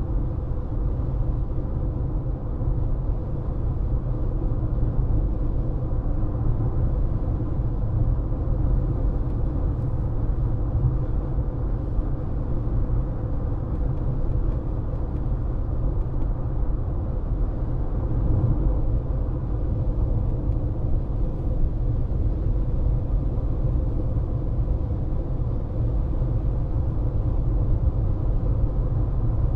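Steady road noise inside a moving car: a low, even rumble of tyres and engine, with a faint steady hum.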